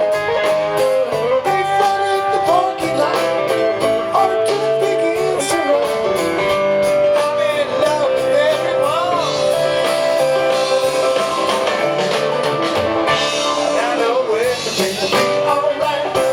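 A live rock band playing an instrumental passage: a lead guitar line with bent, wavering notes over the rest of the band.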